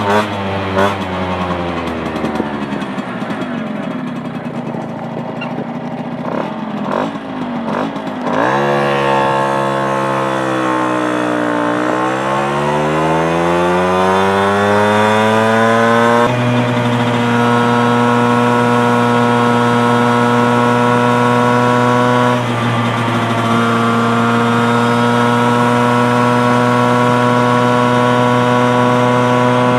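Piaggio Ciao moped's 65 cc two-stroke engine with a Giannelli City Power exhaust, revving. The revs sink at first, then climb sharply, dip, and climb again, before holding steady and high with one brief drop partway through.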